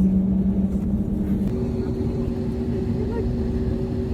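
Airliner cabin noise: a steady low rumble with a two-tone hum that steps up in pitch about a second and a half in.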